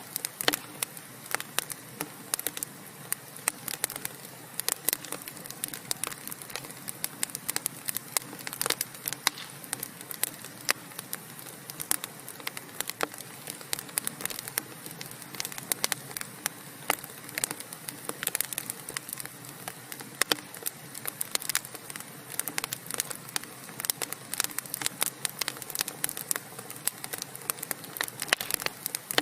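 Wood fire of burning logs crackling steadily, with frequent sharp pops and snaps over a soft low hiss of flames.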